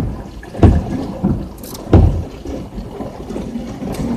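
Heavy rain pouring down on a vehicle's roof and windshield, a steady rushing hiss, with a few dull thumps in the first two seconds.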